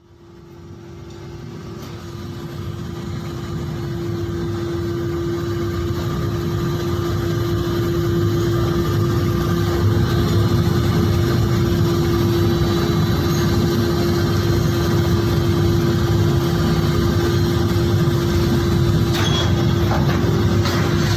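Steady drone of factory machinery, a constant hum tone over a low rumble, fading in from silence over the first several seconds, with a few faint clicks near the end.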